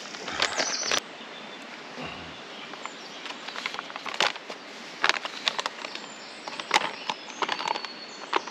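Birds singing during the first second, then scattered light clicks and knocks over a steady outdoor hiss, with a soft thump about two seconds in.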